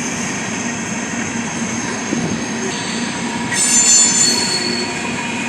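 Train rolling past with a steady rumble and a thin, high wheel squeal. A louder, higher squeal rises about three and a half seconds in and fades a second later.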